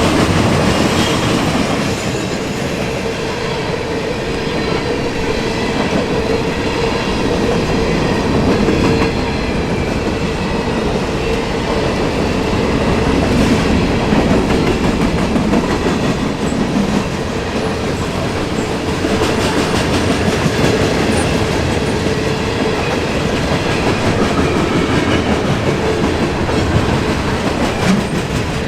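Intermodal freight train cars rolling past: a steady, loud rumble of steel wheels on rail with a clickety-clack over the joints and a steady ringing note from the wheels.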